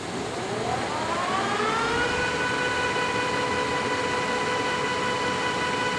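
Poreba TPK-80/5M engine lathe's spindle drive starting up: a gear whine rises in pitch for about two seconds as the spindle comes up to speed, then holds steady at about 250 RPM.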